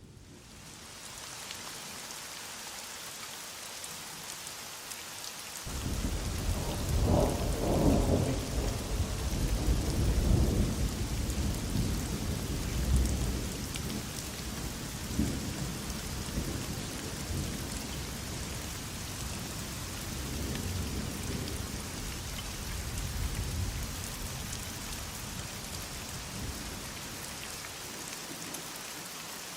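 Heavy rain falling in a steady hiss, with a long roll of thunder that breaks in about six seconds in, is loudest over the next few seconds, and rumbles away slowly through most of the rest.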